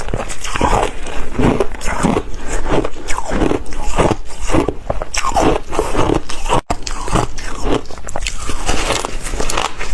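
Close-miked ice being bitten and chewed: a rapid, loud run of crisp crunches, several a second, broken by a momentary gap about two-thirds of the way through.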